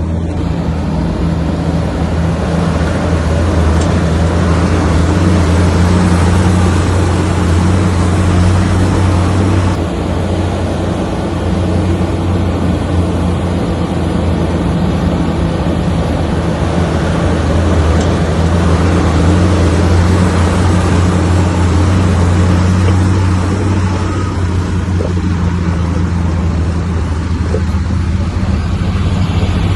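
Komatsu bulldozer's diesel engine running steadily under load, with a deep steady hum and a noisy mechanical wash. The level dips briefly about a third of the way in and again past the middle.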